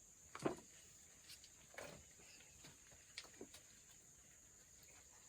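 Near silence: a faint steady hiss with a few faint knocks and clicks, the clearest about half a second in.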